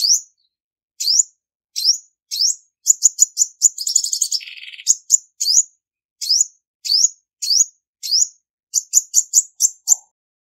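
Female olive-backed sunbird calling: short, high, upward-sweeping chirps repeated roughly twice a second. Twice the chirps speed up into a fast run of clipped notes, with a brief buzzy trill in the middle.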